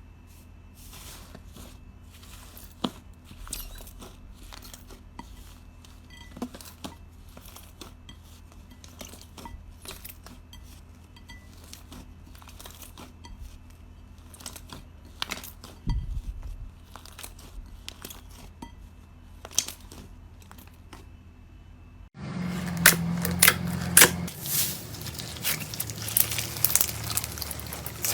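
Slime being squeezed and pressed by hand, giving scattered sharp clicks and pops. About 22 seconds in, a louder, denser run of clicks and crackles begins abruptly.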